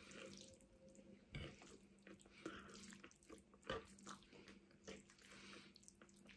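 Faint, wet chewing and mouth sounds of eating spaghetti bolognese, with a few soft clicks spaced about a second apart.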